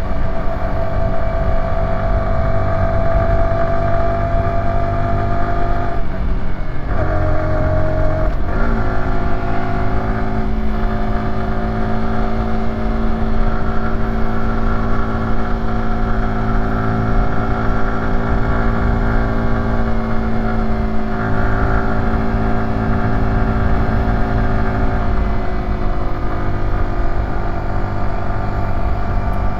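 Yamaha YZF-R125's single-cylinder four-stroke engine pulling on the road, its revs rising slowly. The pitch drops twice, about 7 and 8.5 seconds in, as it shifts up. It then runs steadily at lower revs.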